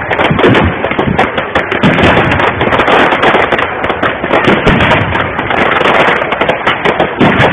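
Fireworks display going off: a dense, unbroken run of bangs, pops and crackling from bursting shells, loud throughout.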